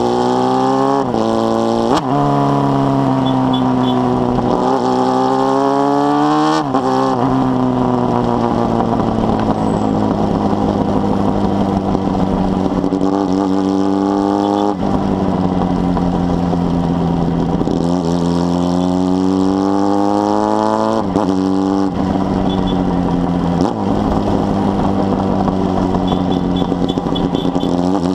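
Honda Hornet 600's carbureted inline-four engine through a 4-into-1 exhaust, pulling through the gears. The engine note rises and then drops sharply at each upshift, several times, with slower falls and steadier stretches between.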